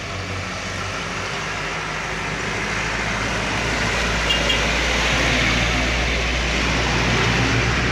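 Heavy truck's diesel engine pulling up a steep climb, getting steadily louder as it approaches.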